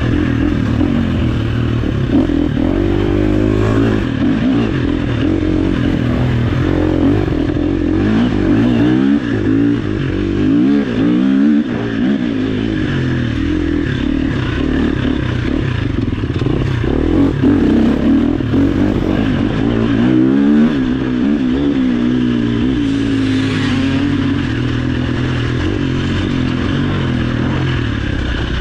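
Off-road motorcycle engine running hard, its pitch rising and falling again and again as the throttle is opened and closed.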